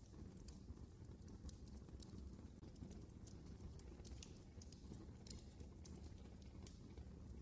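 Wood fire burning in a fireplace: a faint low rumble of the flames with small, irregular crackles and pops.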